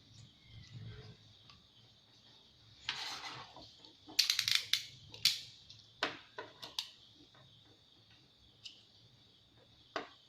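Hard plastic and metal parts being handled, with a short scrape about three seconds in, a quick run of sharp clicks around four to five seconds, and a few single clicks after. A steady high-pitched insect chirring runs underneath.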